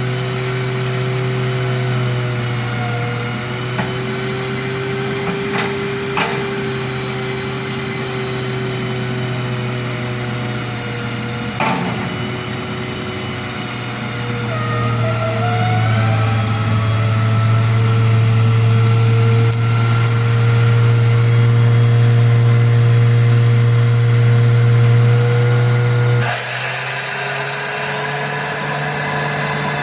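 A machine's engine running steadily, its tone drifting a little, with a couple of sharp knocks. The sound changes abruptly near the end.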